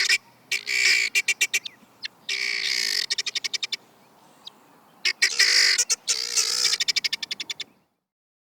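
Guineafowl calling: harsh, grating cackles that break into rapid stuttering rattles, in several bouts with short pauses, stopping abruptly near the end.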